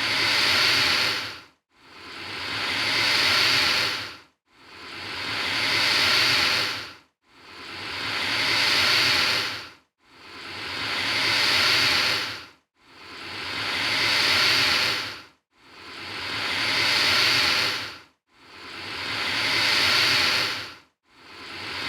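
Alligator hissing, the same hiss repeated evenly a little under every three seconds; each one swells for about two seconds and then stops abruptly.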